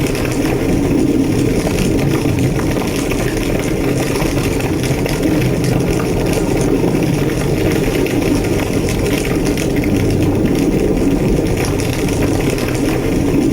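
Large structure fire burning: a steady deep roar with faint crackling on top.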